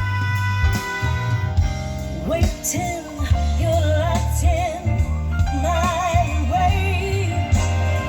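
A song with a sung vocal and heavy bass playing loud through a Jeep Renegade's upgraded car audio system, a Blam Express two-way component kit with coaxial speakers. The singer's notes waver with vibrato over steady bass notes.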